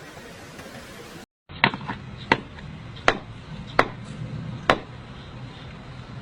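Five sharp knocks, evenly spaced a little under a second apart.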